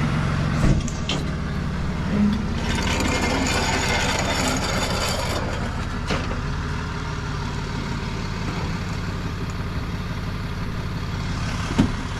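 Tow truck's engine running steadily. A sharp clunk comes about half a second in and another near the end, and a rush of hiss-like noise lasts from about three to five seconds in.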